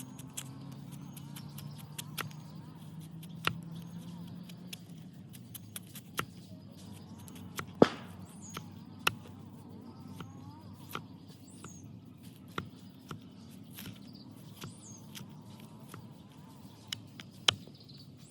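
Sharp knocks or taps at irregular intervals, about fifteen in all, the loudest about eight seconds in, with faint bird chirps behind them. A low hum fades out within the first few seconds.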